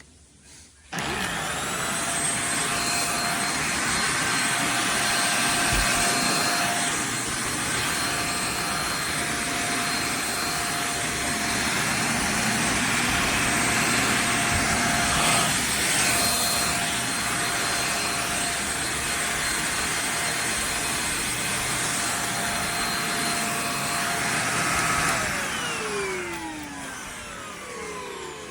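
JPHYLL handheld mattress vacuum cleaner switched on about a second in, its motor running with a steady high whine over a rush of airflow. It is switched off near the end and its pitch falls as the motor winds down.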